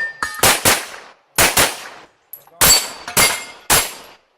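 Pistol shots fired in quick succession during a timed shooting stage, about seven in all. Two fast pairs come in the first second and a half, then single shots about half a second apart, each trailing off in a short echo.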